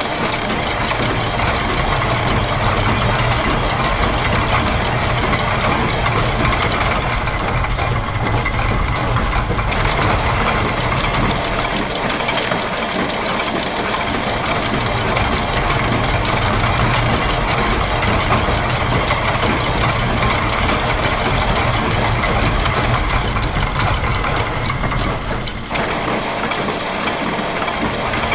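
Looped factory machine sounds layered into a dense, continuous mechanical clatter: gears, a press, clockwork springs, ratchets and a sewing machine running together in overlapping rhythms. The high layer drops out twice for a couple of seconds, about a quarter of the way in and again near the end.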